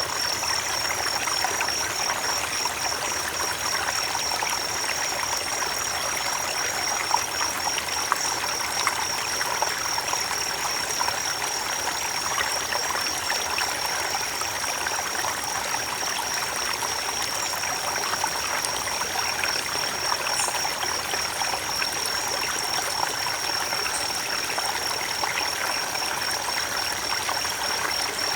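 Creek water running and trickling over stones, a steady even rush. A steady high-pitched trill sits above it.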